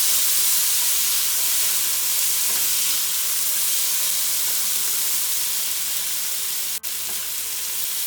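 Chopped tomatoes, onions and spices frying in oil in a pan, a steady sizzle. The sound drops out for an instant about seven seconds in.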